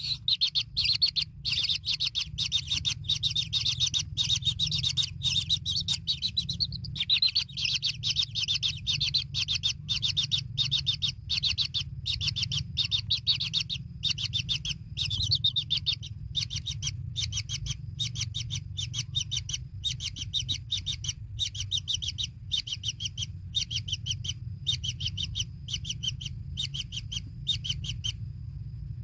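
Kingfisher chicks begging in the nest: a rapid, unbroken run of high chirps, several a second, stopping briefly near the end.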